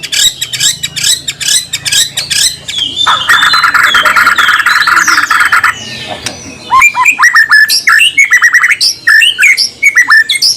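White-rumped shama (murai batu) singing. It starts with rapid chattering notes, then gives a harsh buzzing rattle for nearly three seconds, the raspy 'besetan' call. After that comes a run of loud, downward-slurred whistled notes.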